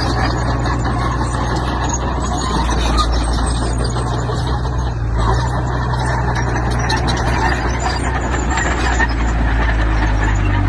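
Heavy diesel construction machinery running steadily: a low engine drone under a dense, rough mechanical noise.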